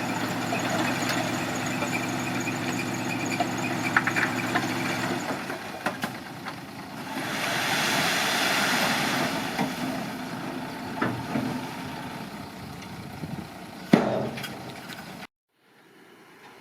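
Diesel engine of heavy earthmoving machinery running steadily, with a rushing hiss that swells and fades in the middle and a single sharp knock near the end, before the sound cuts off suddenly.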